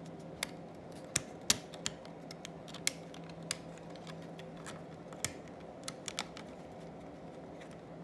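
Irregular sharp clicks and taps of small hard plastic parts, about a dozen, the loudest about a second and a half in, over a steady low hum.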